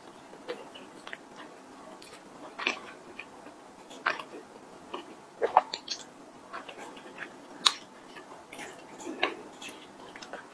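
Close-miked mouth sounds of a person biting and chewing a mooncake with a sticky filling: irregular soft clicks and smacks, with a few sharper ones spaced a second or two apart.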